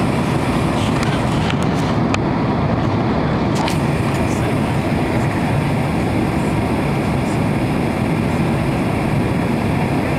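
Steady cabin noise inside a Boeing 767-300 airliner in flight: engine and airflow noise, with a few faint clicks in the first four seconds.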